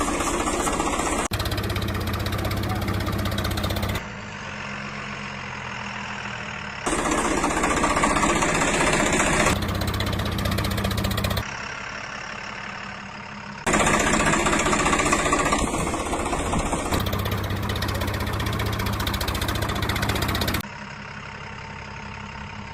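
Diesel tractor engine running, in spliced segments that cut abruptly between a louder and a quieter engine sound every few seconds.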